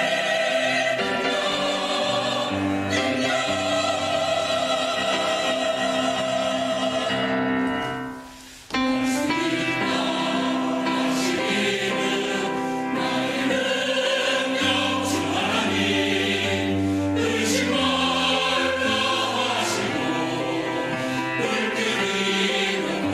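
Church choir singing an anthem in held, sustained chords. The sound dies away briefly about eight seconds in, then the full choir comes back in.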